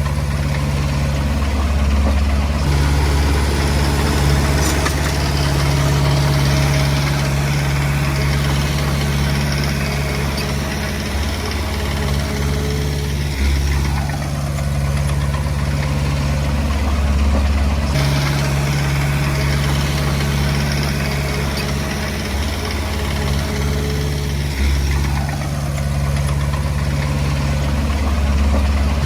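Komatsu D20P crawler bulldozer's diesel engine running steadily, its tone dipping and recovering every few seconds as the load changes.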